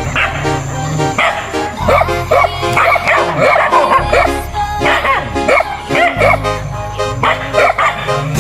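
Dogs barking and yipping again and again over background music.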